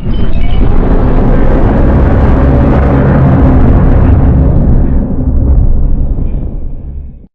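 Custom giant-monster sound effect: a loud, deep rumbling sound that starts abruptly, holds for about five seconds, thins out over the last two seconds and cuts off.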